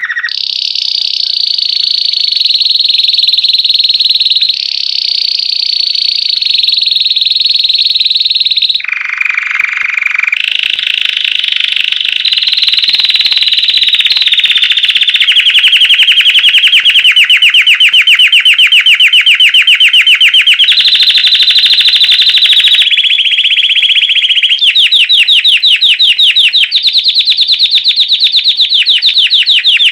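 Domestic canary (Belgian white) singing a long unbroken song in the bell-like 'campainha' style. It is a string of high rolling trills that switch to a new phrase and pitch every few seconds, with a brief lower phrase about nine seconds in. The second half turns to very fast rattling trills.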